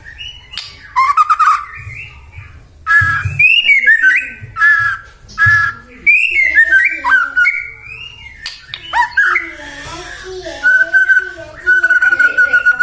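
White-rumped shama (murai batu) singing: varied loud phrases of whistled notes, quick falling sweeps and rapid rattling trills, ending with a long held whistle.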